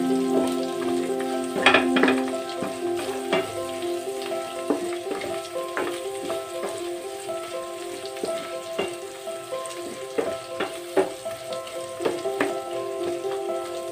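Meat and carrot strips sizzling in a stainless steel pan while a wooden spatula stirs them, with sharp knocks and scrapes of the spatula against the pan every second or two. Background music with long held notes plays under it.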